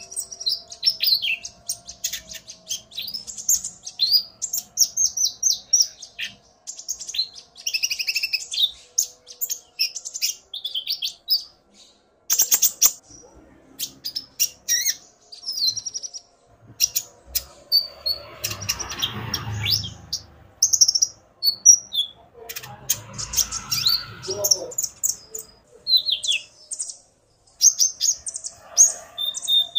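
Konin (kolibri ninja) sunbirds calling: a male singing fast, high chirps and short trills, answered by a female. Two short stretches of rustling noise come in the second half.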